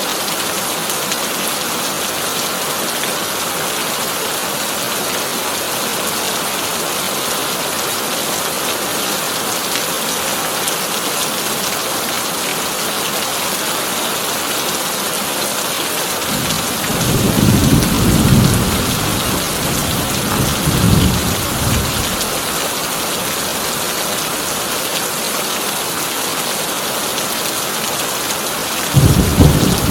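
Heavy rain drumming steadily on a tin roof, with a roll of thunder rumbling in a little past halfway and fading after several seconds, and another thunderclap breaking in at the very end.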